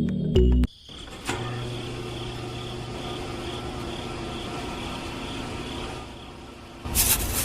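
Music cuts off under a second in, then a small motor runs steadily, with a faint high whine that pulses evenly. A loud rushing noise starts near the end.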